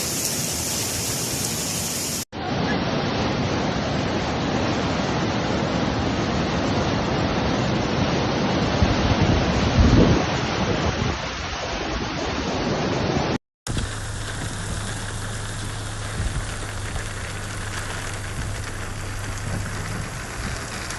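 Steady rush of heavy rain and running water in three recordings cut together, each breaking off sharply. The last recording carries a low steady hum under the water noise.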